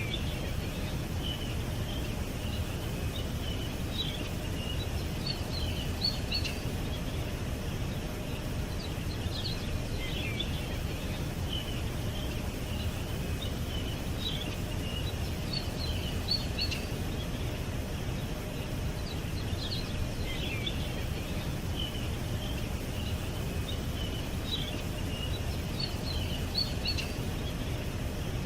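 Small birds chirping and twittering in short high phrases over a steady low rumble of outdoor background noise. The same run of chirps comes round again about every ten seconds.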